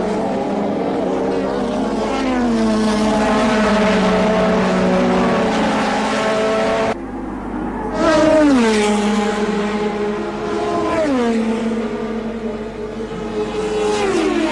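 1984 Formula One car engines running at high revs, with the note falling away several times as cars pass or lift off. The sound changes abruptly about seven seconds in, as at an edit between shots.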